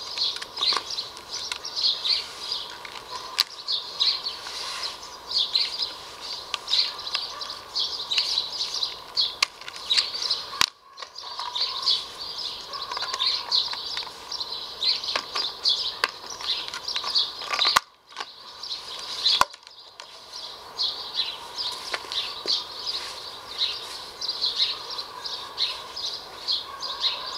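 Small birds chirping over and over in the background, with a few sharp clicks.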